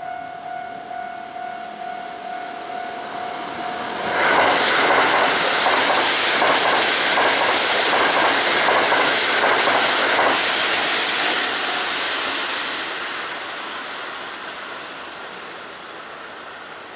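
A Kintetsu limited express electric train passes close by. A steady tone sounds for the first four seconds or so, then the loud rush of the train arrives with a rhythmic clatter of wheels over rail joints. The train noise fades away from about eleven seconds on.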